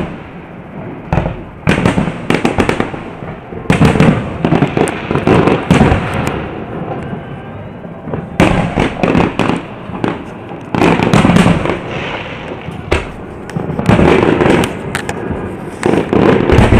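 Aerial firework shells bursting one after another: loud bangs, many in quick crackling clusters, with a few short lulls between volleys.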